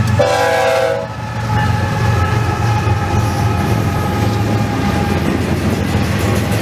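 Diesel-electric freight locomotives passing close by: a short chord blast of the lead locomotive's air horn that cuts off about a second in, then the steady low rumble of the engines and the rolling freight cars.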